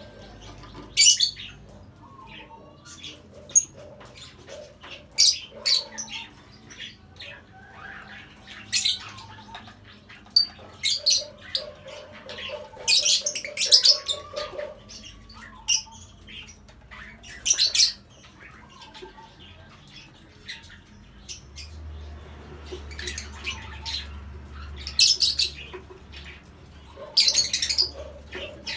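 Lovebirds giving short, shrill chirps and squawks at irregular intervals.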